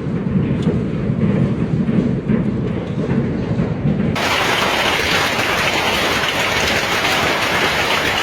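Heavy hail pounding down in a dense, continuous clatter. About four seconds in it changes abruptly to a brighter, hissing downpour, which cuts off suddenly near the end.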